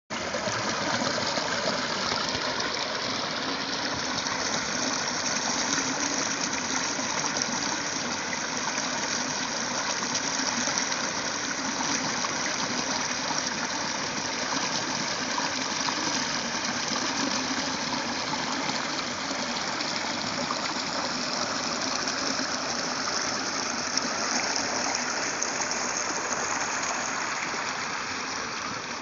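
Rushing water of a waterfall or stream, a steady, unbroken noise.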